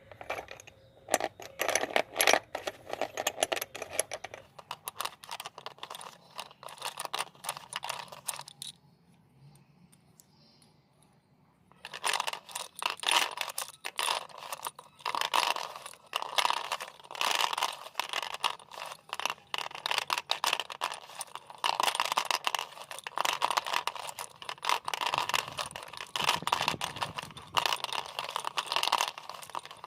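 Coloured chalk being crumbled: a dense run of dry, crisp crunching and cracking that pauses for about three seconds a third of the way in, then goes on in steady repeated bursts.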